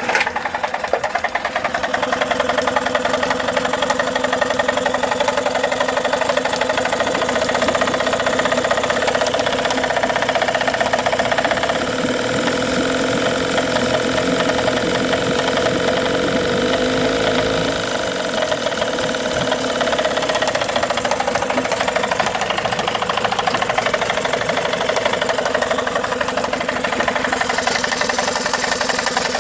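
Tohatsu 18 hp two-stroke outboard motor running at idle with a knocking sound.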